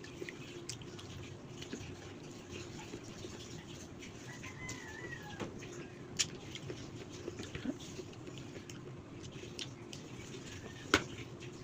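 Eating sounds: scattered soft clicks and wet mouth noises of someone eating kinilaw sea grapes, with two sharper ticks about six and eleven seconds in, over a faint steady hum. A faint high chirp comes about four to five seconds in.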